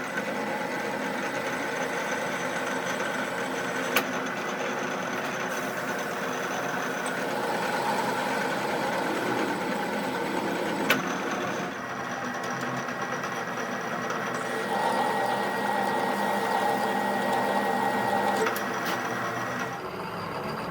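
A machine running steadily, with two sharp clicks, one about four seconds in and one about eleven seconds in.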